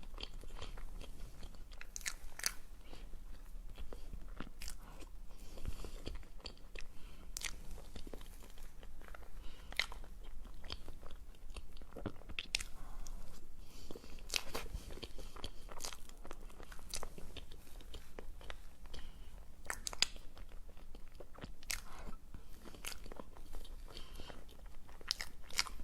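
Close-miked eating sounds: a person biting and chewing a matcha and red bean dessert, with many short, sharp mouth clicks at irregular intervals.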